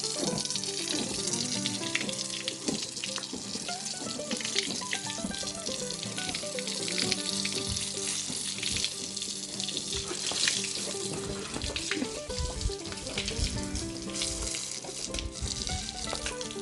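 Tap water running steadily into a kitchen sink, with a few light knocks of things being handled, over background music.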